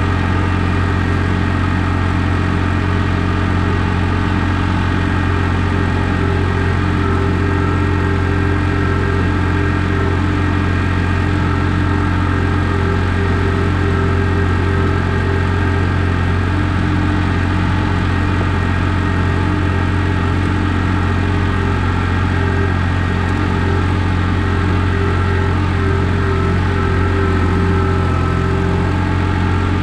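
John Deere 855 compact tractor's three-cylinder diesel engine running at a steady speed.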